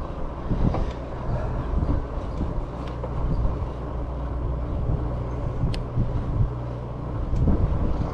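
Steady low rumble of an e-bike being ridden on its throttle: wind on the microphone and tyre and road noise, with a few faint clicks.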